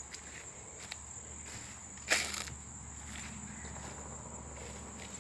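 Insects trilling steadily in a continuous high-pitched drone, with a few footsteps on the trail; the loudest step comes about two seconds in.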